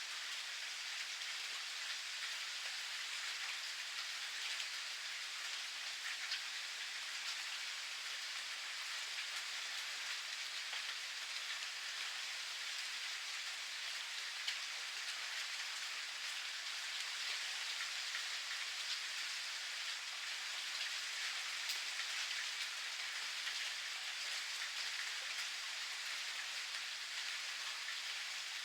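Steady rain falling, an even patter with scattered individual drops ticking on a surface, and one louder drop about halfway through.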